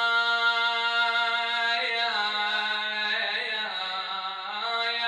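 A man's voice chanting an Arabic Muharram mourning elegy, drawing one syllable out into a long melismatic held note. The note slides in pitch about two seconds in and wavers through the second half.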